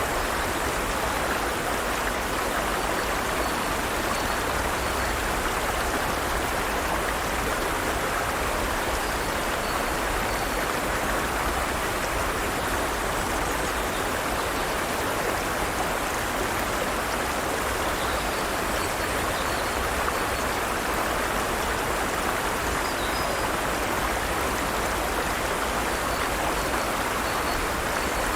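Forest stream running: a steady rush of flowing water, even in level throughout.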